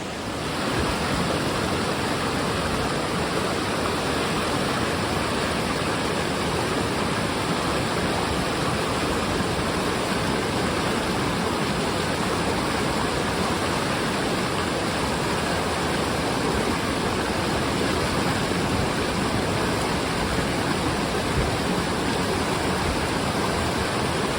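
Rain-swollen mountain river rushing steadily at high water.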